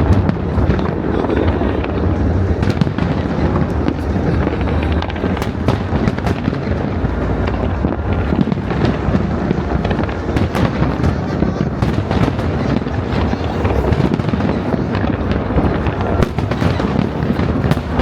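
A continuous fireworks barrage: rapid sharp crackles over a dense rumble of bursts, with no break.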